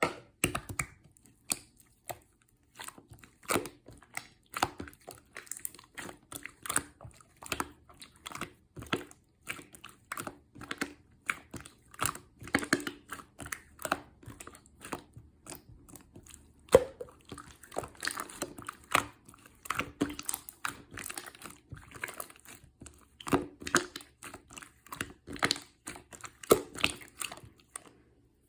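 An irregular run of short crinkles, taps and crunches, a few each second, like hands handling crinkly material at close range.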